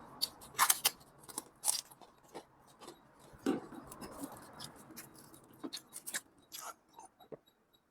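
Close-miked eating of instant noodles: chewing with irregular short mouth clicks, some louder than others.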